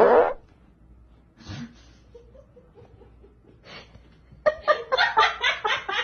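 A loud, sudden burst right at the start, then a person laughing in quick repeated bursts during the last second and a half.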